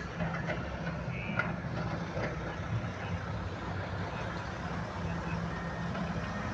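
Heavy diesel machinery engine running steadily at an even pitch, with no revving or change.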